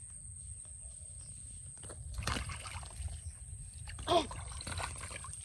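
Water splashing and sloshing in a pond, loudest about two seconds in, with a short voice-like call about four seconds in.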